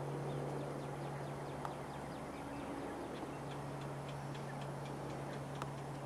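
A small bird calling a fast run of short, high, falling chirps, about four a second, over a steady low hum. Two faint sharp clicks, about a second and a half in and near the end.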